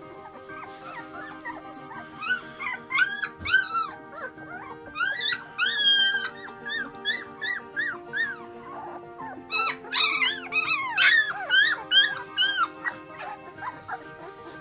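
A dog whining in many short, high squeaky calls that each fall in pitch, coming in clusters, over music with long held notes.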